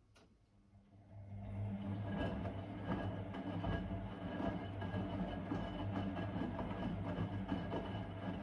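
Blomberg WA391 washing machine starting up after a click and running steadily, with a low hum and a busy rattle.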